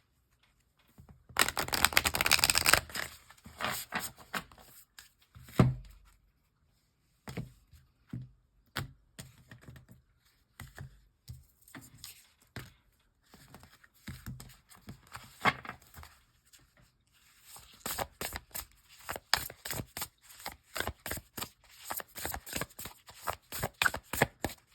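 A deck of cards being shuffled and handled close up: a dense riffle about a second and a half in, then scattered snaps and taps, becoming a quick run of clicks in the last several seconds.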